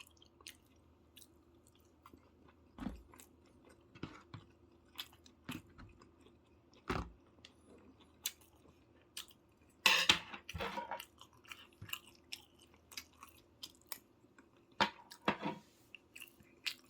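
Close-miked chewing and mouth sounds of a person eating: faint, irregular wet clicks and smacks, with a louder cluster of bites about ten seconds in.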